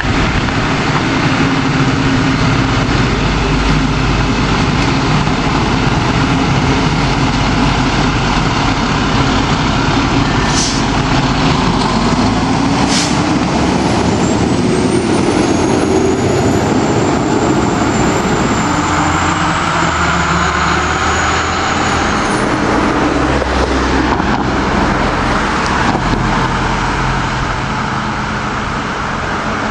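Fire engine driving on a routine response without its siren, its engine running loud and steady. The engine note rises as it speeds up about halfway through, just after two short sharp sounds.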